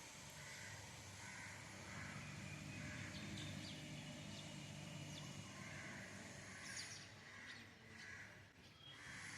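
Garden birds calling, one short call repeated about twice a second, over a low steady drone.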